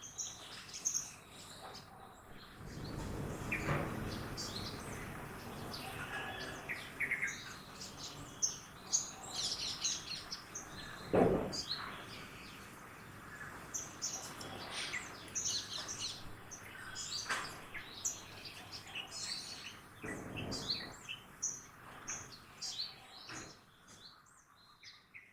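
Many small birds chirping and singing in quick, overlapping high calls, over a low rumble of street traffic that swells twice as vehicles pass. A single sharp sound stands out about eleven seconds in.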